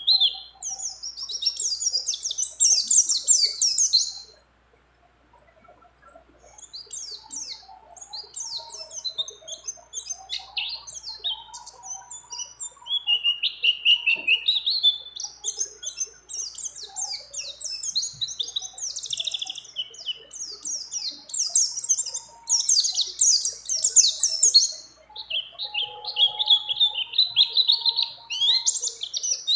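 A white-eye (pleci) singing a long, fast, high chattering song of trills and warbles, broken by a pause of about two seconds near the start.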